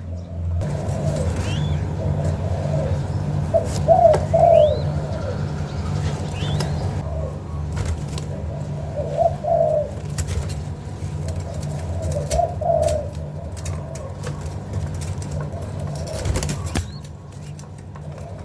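Young spotted dove cooing in short phrases every few seconds, over a steady low hum.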